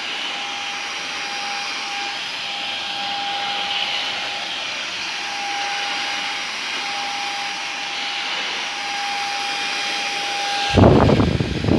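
Samsung VS20T7532T1 cordless stick vacuum running steadily, its motor giving an even whine over the rush of suction air. Near the end a loud low rumble of about a second covers it.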